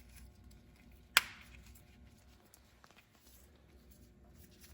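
One sharp click about a second in as a brake pad shim is worked onto a new rear brake pad, with a few faint handling ticks around it.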